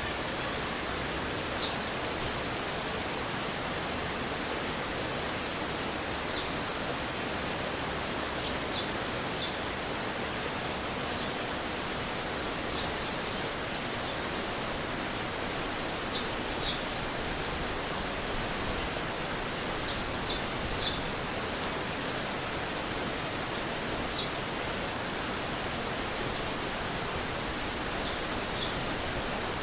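Stream water rushing steadily, with short high chirps now and then, sometimes two or three in quick succession.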